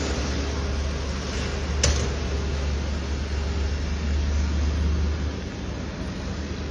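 FAW truck's diesel engine running steadily with a low hum and broad mechanical noise, with one sharp click about two seconds in; it eases off slightly near the end.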